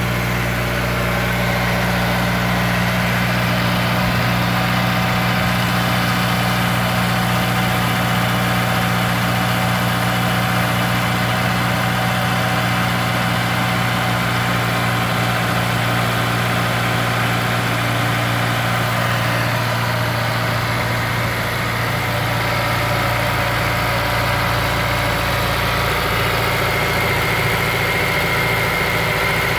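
Honda S2000's four-cylinder DOHC VTEC engine idling steadily on a cold start, with a newly installed timing chain tensioner.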